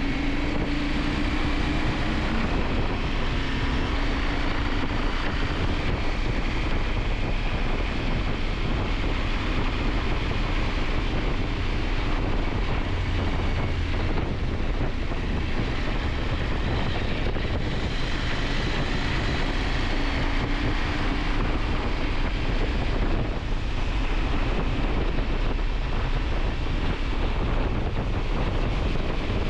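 KTM 890 Adventure's parallel-twin engine running steadily on the move, under heavy wind rushing over the microphone.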